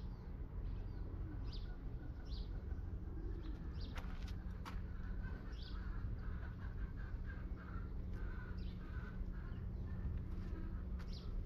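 Birds chirping in short repeated calls over a steady low background hum, with a couple of sharp clicks about four seconds in.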